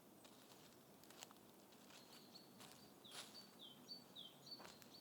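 Faint forest ambience: a small bird singing a quiet run of short, high notes repeated about twice a second, starting about two seconds in, with a few faint clicks.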